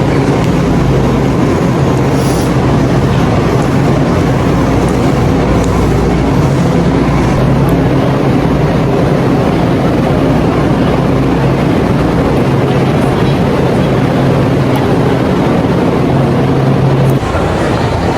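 Steady, loud rumble of a moving train heard from inside the carriage, with a low hum under it. The level drops slightly and abruptly about a second before the end.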